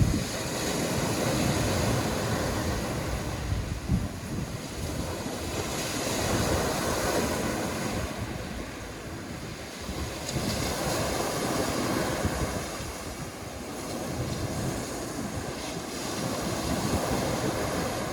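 Sea waves washing onto the shore, the surf swelling and ebbing about every four to five seconds, with wind buffeting the microphone.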